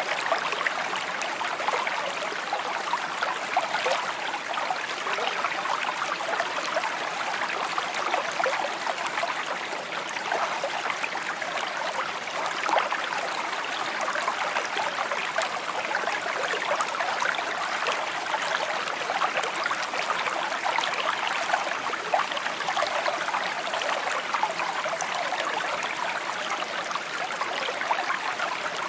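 Shallow stream babbling and trickling over stones, a steady flow of water with many small splashes and gurgles.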